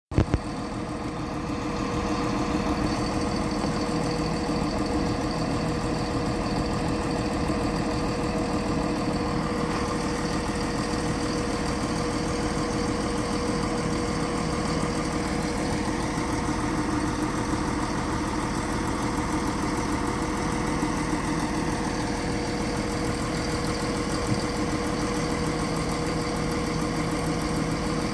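Class 170 Turbostar diesel multiple unit's underfloor diesel engine idling steadily, with a constant hum and a steady tone held throughout. A couple of clicks at the very start.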